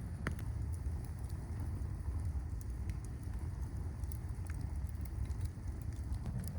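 Campfire crackling now and then over a steady low rumble of snowstorm wind.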